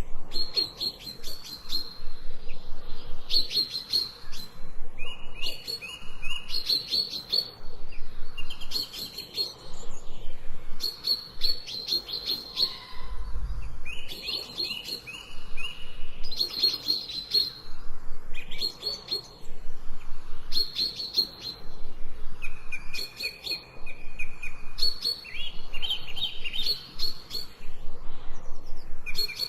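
Small songbirds chirping and trilling in short, rapid repeated phrases, one after another, with brief pauses between them.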